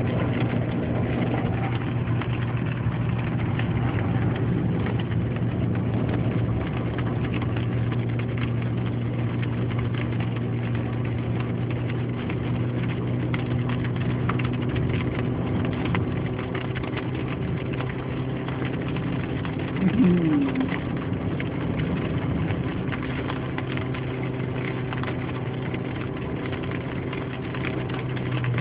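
Car engine running steadily with a constant low hum, heard from inside the vehicle. There is a brief louder gliding sound about two-thirds of the way through.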